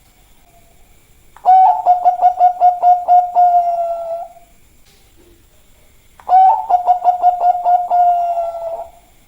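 Bangkok-strain zebra dove (perkutut) cooing: two songs, each a quick run of staccato notes running into a held, steady coo lasting about three seconds. One song starts about a second and a half in, the other about six seconds in.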